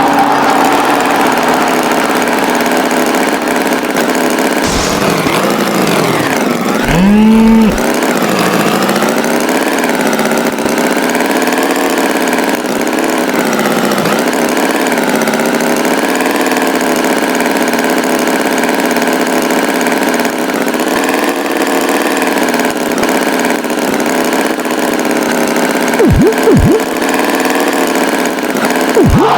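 Cartoon tractor engine running steadily, its pitch wavering slowly. About six seconds in the pitch sweeps down and back up with a short rising tone, and near the end come a few quick, brief whistling glides.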